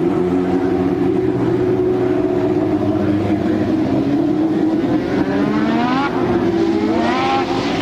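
1988 Formula One race car engines running at high revs over a steady engine drone, with a car accelerating hard and its pitch climbing about five seconds in, and again about seven seconds in.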